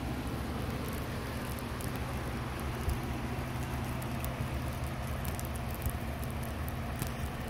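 A vehicle engine idling with a steady low hum, under a light patter of falling wet snow with scattered faint ticks.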